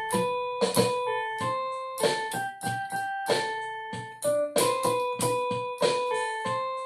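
Music: a piano instrumental break between sung lines of a song, single notes and chords struck one after another and left to ring.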